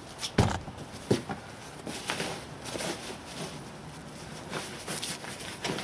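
Foundry supplies being handled and unpacked from their packaging: a few sharp knocks and clunks, the loudest about half a second in, with light rustling between.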